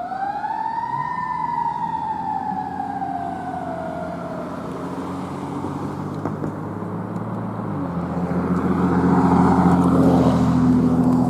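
Fire engine's siren rises in a quick wail, then winds down slowly over a few seconds. The truck's diesel engine runs beneath it, changing pitch about eight seconds in and growing loudest as the engine passes.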